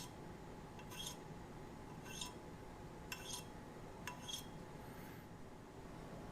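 Steel knife edge drawn across a piece of float glass to dull it before sharpening: six or seven short, faint, high glassy scrapes and clicks, about one a second.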